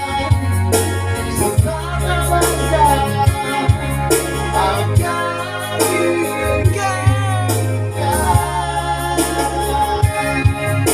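Singing of an Indonesian gospel song over electronic keyboard accompaniment, with held bass notes and a steady beat.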